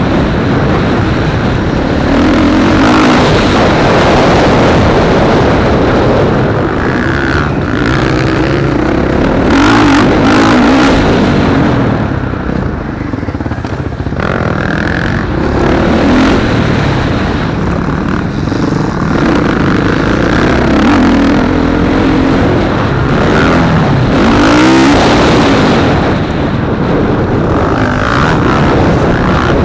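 Motocross bikes racing, their engines revving up and down through the gears as they pass, with several engine notes overlapping and the pitch repeatedly rising and falling.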